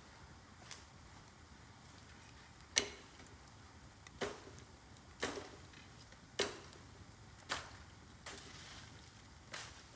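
Bamboo cracking: a string of about seven sharp cracks, roughly a second apart, over a faint steady background.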